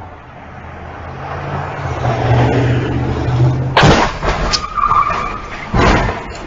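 A vehicle's engine running and growing louder, then a sudden loud collision impact about four seconds in, with crunching debris after it and a second heavy bang about two seconds later.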